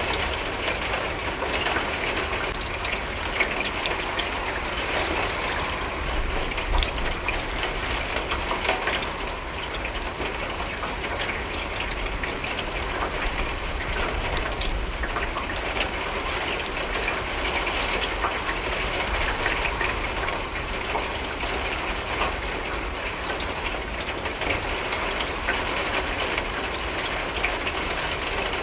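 Steady rain falling, with many small drops pattering against a window and a low rumble beneath.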